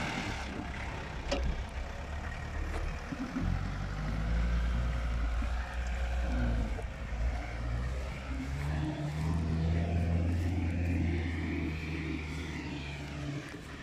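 Land Rover Series IIa 109's engine labouring as the vehicle pulls through a grassy ditch in four-wheel drive. The revs rise and fall, and it gets louder from about three and a half seconds in.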